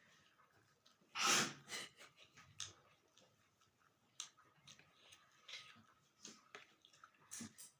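Person eating rice and dal: scattered small wet mouth clicks and chewing smacks, with one louder breath or sniff about a second in.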